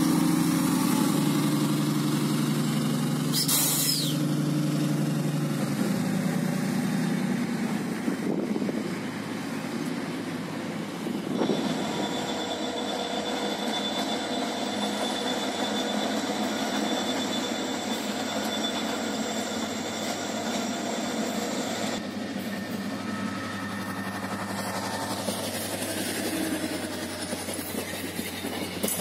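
Diesel railcar's engine running with a low drone that shifts in pitch as the train moves off along the platform, with a brief hiss a few seconds in. Later, a steady high whine over the noise of a rail yard, then passenger coaches rolling past on the track.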